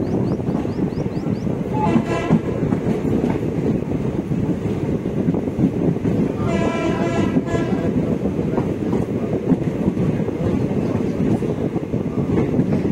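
Steady rumble of a moving passenger train heard from on board through an open window, with the train horn sounding twice: a short blast about two seconds in and a longer blast of about a second a few seconds later.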